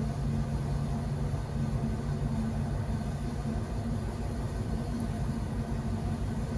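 Steady low drone of a ship's engine and machinery, a continuous hum with no breaks.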